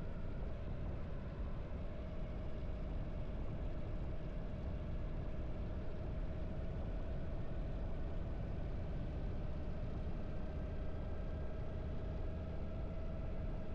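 Harley-Davidson V-twin motorcycle engine running steadily at an even cruising speed, with no revving or gear changes, over a constant low rumble.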